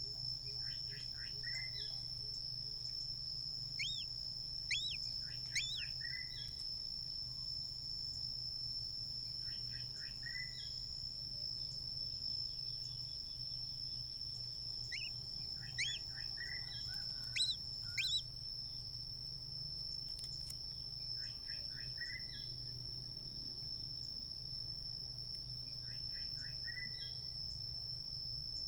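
Small birds chirping in short clusters every few seconds, with a few louder arching chirps twice, over a steady high-pitched insect drone like crickets.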